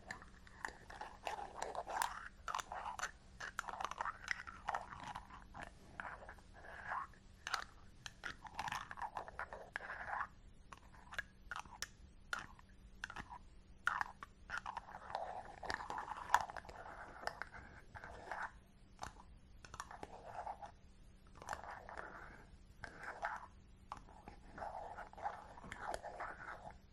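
Fingers rubbing and scratching a close-shaved scalp, giving crunchy, rasping strokes in bursts of a second or two with small sharp clicks in between.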